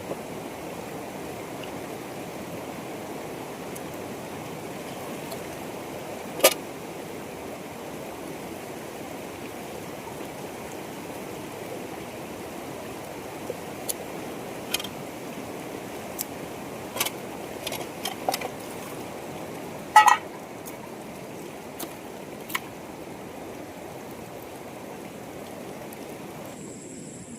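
Steady rush of flowing water, with scattered sharp knocks and clicks over it: one about six seconds in, a run of them in the middle, and the loudest about twenty seconds in.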